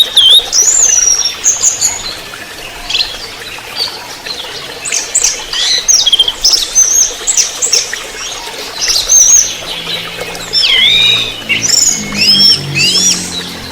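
Orange-headed thrush singing: a rapid, varied run of short whistled notes and slurred phrases in bursts with brief pauses.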